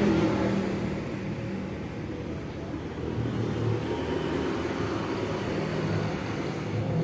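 Vehicle engine running steadily with a low hum that shifts a little in pitch, in road noise.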